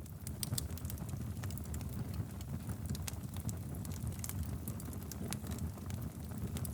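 Wood fire burning in a fireplace: a low steady rumble of flames with frequent irregular crackles and pops from the burning logs.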